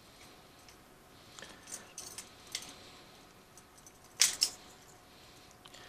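Light plastic clicks and knocks of a phone being handled in a plastic handlebar phone-holder cradle, with a sharper double clack about four seconds in.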